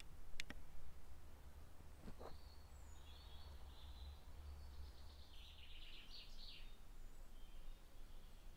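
Faint birdsong: small birds in the trees giving quick runs of high chirps, over a steady low rumble. Two sharp clicks come about half a second in.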